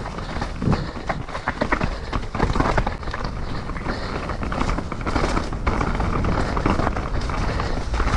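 Mountain bike riding a wet, rough trail: tyres rolling and scrabbling over mud, leaves and roots, with frequent short knocks from the bike and a steady rush of wind on the camera's microphone.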